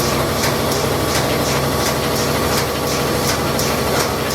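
A machine running steadily: a constant low hum with a regular hissing tick about three times a second.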